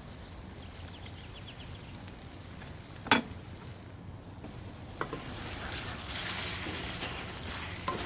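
Chicken karahi sizzling in the pan, with a steady low rumble underneath. There is a single sharp knock about three seconds in, and the sizzle grows louder from about five seconds in.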